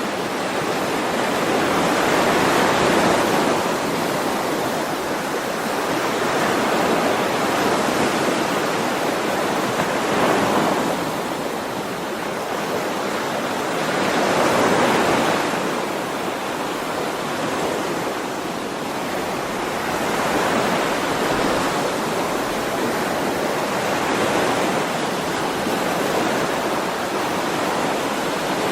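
Ocean waves washing on a shore: a continuous surf hiss that swells and eases with each wave, about every four to five seconds.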